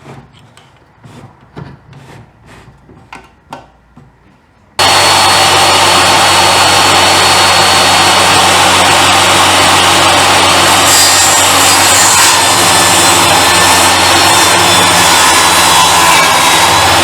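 A few light knocks of wood being handled, then, about five seconds in, a power saw starts suddenly and runs loud and steady through wood for the rest of the time.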